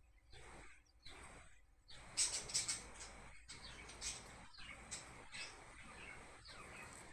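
Wild birds chirping and calling in a string of short, high calls, loudest about two to three seconds in.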